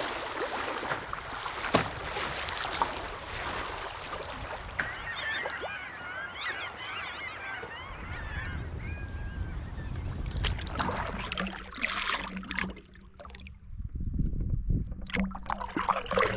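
Geese honking in a burst of calls about five seconds in, lasting a few seconds. Canoe paddle strokes and water splashes are heard around them.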